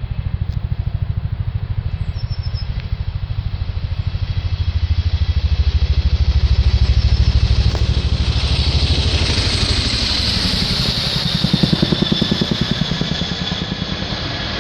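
Chinook tandem-rotor military helicopter flying low: a fast, even beat from the rotors, with a high turbine whine that grows strong about halfway through.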